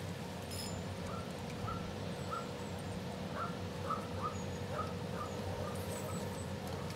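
A bird calling in a series of short notes, about two a second, over a faint steady hum.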